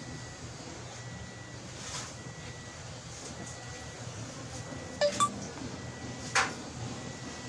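Sharp metallic clinks of tools on metal: two close together about five seconds in and a louder, ringing one just over a second later, over a steady low hum.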